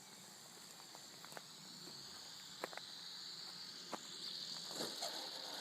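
Faint, steady high-pitched whine that grows louder towards the end, from the electric motor and propeller of an RC Edge 540 model plane coming in to land on a weakening battery. A few faint clicks are heard.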